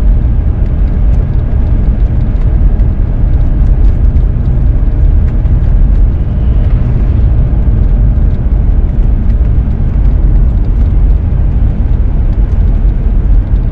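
Steady engine and road noise of a four-wheel-drive vehicle driving, heard from inside the cabin, with a low, even rumble.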